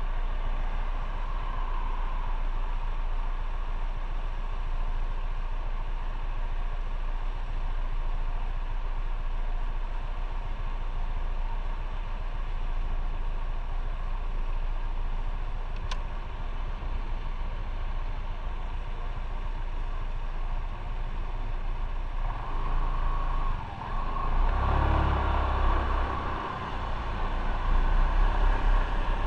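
Motorcycle on the move, with steady engine and road noise under wind rushing past. About three-quarters of the way through it grows louder, with heavier low rumble and buffeting.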